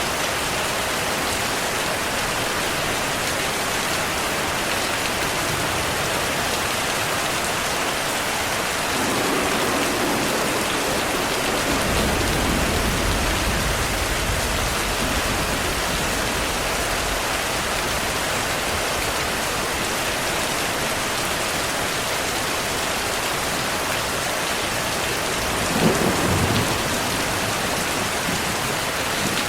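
Heavy, steady rainfall with thunder. A low rolling rumble builds about a third of the way in and lasts several seconds, and a sharper thunderclap comes near the end.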